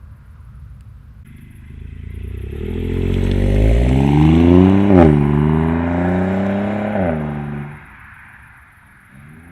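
BMW 120i's B38 three-cylinder engine through a DCE Parts valved catback exhaust, accelerating. The pitch climbs, drops sharply at a gear change about halfway through, climbs again, then falls away as the throttle is released near the end.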